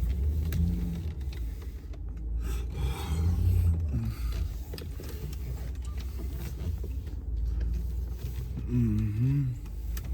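Low steady rumble of a pickup truck inside its cab, with scattered clicks and rubbing of handling noise. A short wavering pitched sound comes about nine seconds in.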